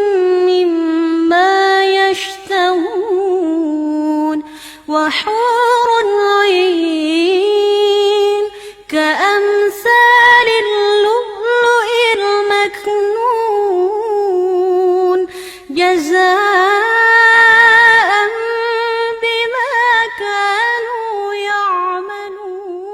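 A girl's unaccompanied voice in melodic Quran recitation, drawing out long held notes with wavering ornamental turns. She breaks briefly for breath about five, nine and sixteen seconds in, and trails off at the end.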